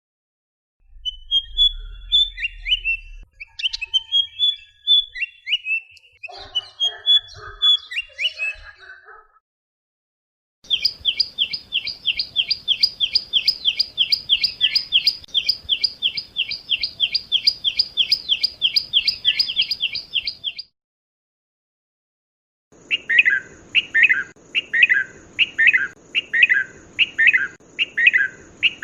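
Three separate recordings of birds calling. First comes a varied twittering of short chirps. Next is a fast, even run of repeated chirps, about four or five a second for some ten seconds. Last is a slower series of sharp calls, about two a second, over a steady high tone.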